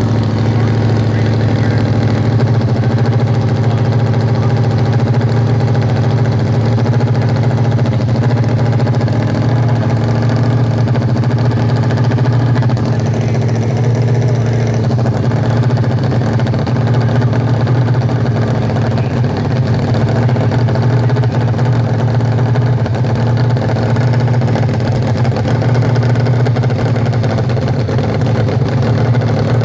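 Nitro-fuelled 1100 cc hill-climb motorcycle engine in a dirt-bike frame idling steadily and loudly, its low drone even throughout with no revving.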